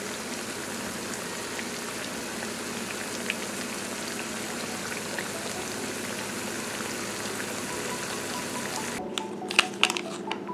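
Food sizzling in hot oil in a frying pan: a steady hiss with small scattered crackles and pops. About nine seconds in it stops abruptly, giving way to a few sharp clicks.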